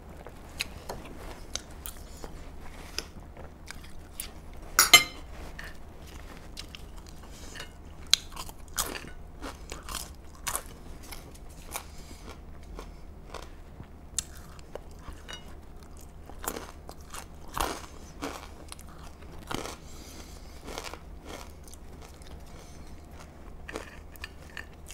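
Close-up chewing and crunching of food: bites of watermelon and crisp air-fried potato fries, a run of short crunches with one sharper, louder crunch about five seconds in.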